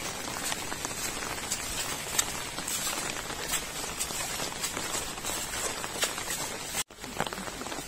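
Rain falling steadily: an even hiss with scattered sharp ticks of drops.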